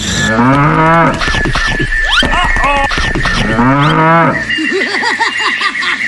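A cow mooing twice, two long drawn-out calls a couple of seconds apart, followed by a quick run of short warbling notes over a steady high-pitched whine.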